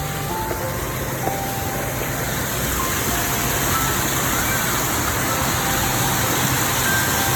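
Steady rush of water falling over stonework, a little louder from about three seconds in. Faint background music of held low notes and scattered higher tones plays over it.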